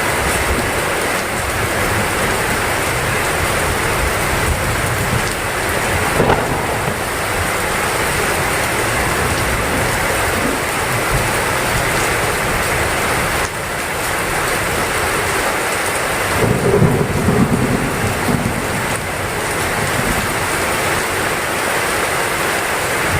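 Heavy rain pouring steadily, with a low rumble of thunder about two-thirds of the way through.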